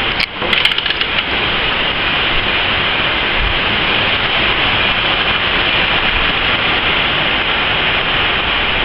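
Heavy storm rain pouring steadily, an even, unbroken hiss, with a short crackle of clicks under a second in.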